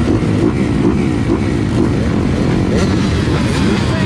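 GasGas dirt bike engine revving hard, its pitch rising and falling quickly again and again as the throttle is worked while riding off-road.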